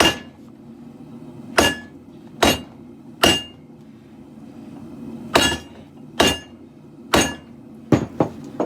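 Hand hammer striking hot leaf-spring steel on an anvil while drawing out a katana blade. Single blows land about one a second in short groups, each with a brief metallic ring, and a few quicker, lighter taps follow near the end. A steady low rumble runs underneath.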